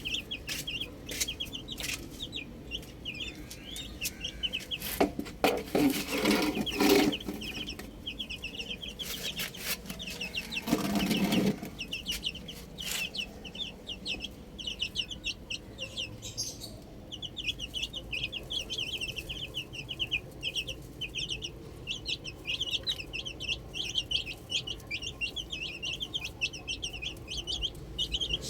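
Baby chicks peeping rapidly and continuously. An adult chicken clucks loudly in a run of calls about five to seven seconds in, and again briefly about eleven seconds in.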